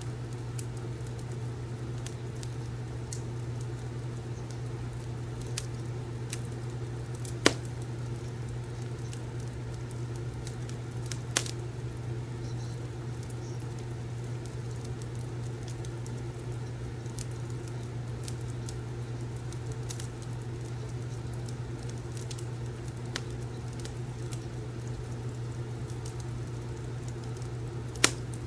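Wood fire crackling in a fireplace: scattered small snaps with a few louder pops, over a steady low hum.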